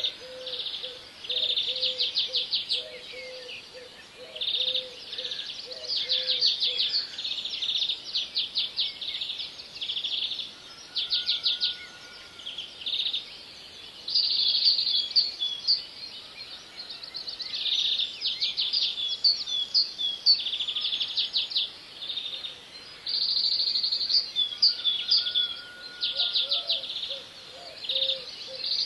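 Birds chirping and trilling in repeated bursts of rapid high notes, with a lower note pulsing about twice a second for the first several seconds and again near the end.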